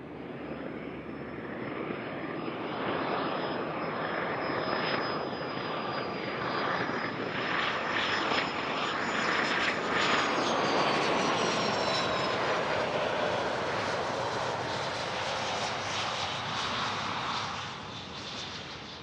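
Gulfstream G450 business jet's twin turbofans running on the runway: a steady jet roar that builds up and then eases near the end, with a high whine that slides down in pitch about ten seconds in as the jet goes past.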